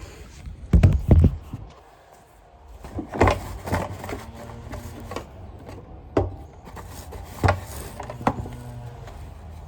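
Sanitaire vacuum cleaner parts being handled and fitted back together: a string of separate knocks and thunks, the two loudest about a second in, then more every second or two.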